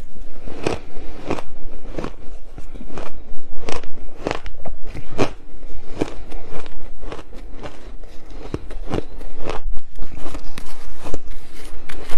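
A person biting and chewing ice, a steady string of loud, crisp crunches about one to two a second.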